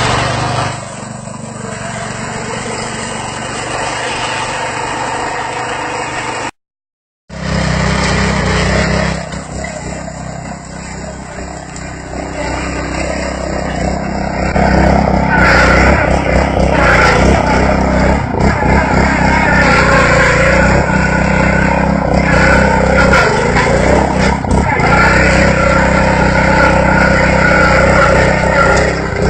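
Lawnmower engine running steadily, then louder and busier from about fifteen seconds in. The sound cuts out completely for under a second about seven seconds in.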